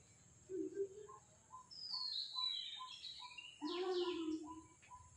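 Birds calling: a short note repeated about three times a second, with higher sliding chirps over it around the middle and a louder, fuller call about four seconds in.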